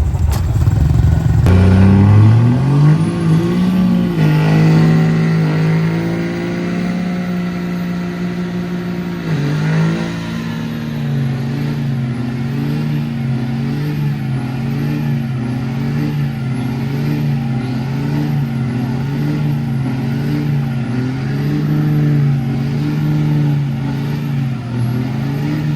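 Large engine revving: it climbs in pitch, holds a high steady speed for several seconds, drops briefly, then is pumped up and down in an even rhythm of about one swing a second.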